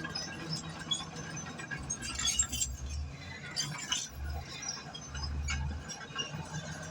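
Crawler bulldozer working, its steel tracks clinking and squeaking over a low engine rumble that swells and drops several times.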